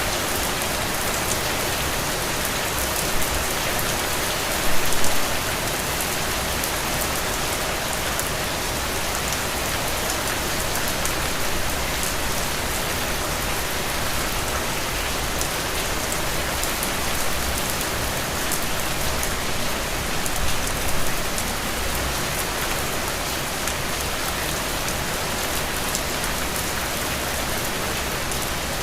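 Steady rain falling on a surface, a constant hiss dotted with close individual drops, with a couple of brief louder patters about five seconds in and again about twenty seconds in.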